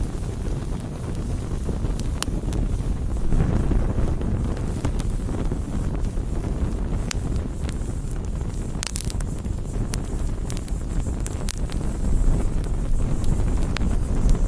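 Campfire burning: a steady low rush of flames with scattered sharp crackles and pops from the burning wood, a quick cluster of pops about two-thirds of the way through.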